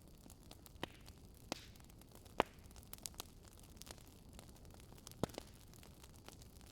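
Wood fire crackling: irregular sharp pops and snaps over a steady low hiss, the loudest pop about two and a half seconds in.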